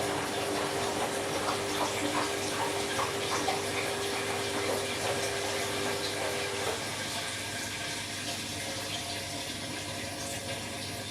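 Candy washing machine taking in water: a steady rush of water into the drum with light splashing, and a steady hum that stops about two-thirds of the way through while the water noise carries on.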